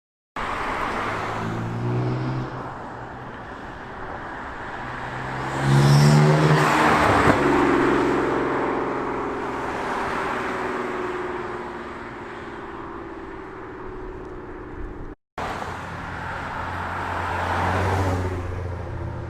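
BMW M4's twin-turbo inline-six with catless downpipes and an FI aftermarket exhaust, driving past under acceleration. The pitch rises to a loud peak about six seconds in, with a sharp crack just after, then falls away as the car leaves. After a brief cut, a second pass approaches and peaks near the end.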